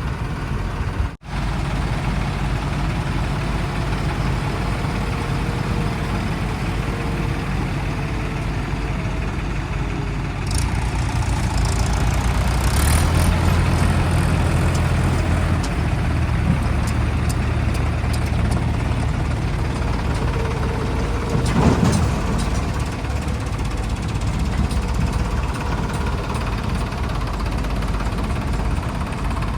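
Diesel engine of heavy machinery running, its note rising and falling as it works. A sudden brief dropout about a second in, and a short louder burst of noise about 22 seconds in.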